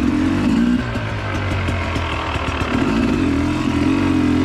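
Two-stroke dirt bike engine running at low revs, its pitch wavering up and down with the throttle as the bike is worked over slippery roots.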